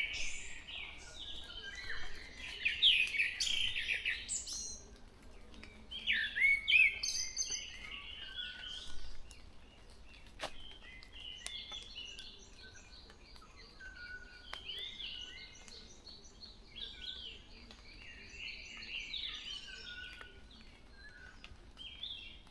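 Wild birds singing and calling, several overlapping whistled and chirping phrases, loudest in the first few seconds and again about six seconds in.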